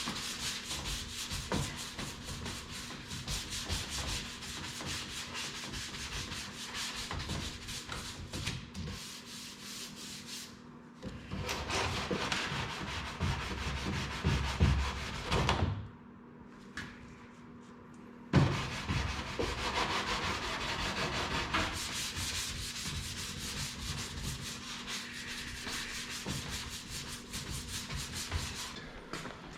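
Hand block sanding of Bondo body filler on a car body panel: sandpaper rasping in steady back-and-forth strokes. It stops for about two seconds in the middle and starts again with a sharp knock.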